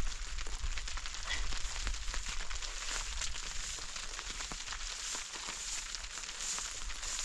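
Fire crackling: many small irregular pops over a steady hiss, with a low hum underneath.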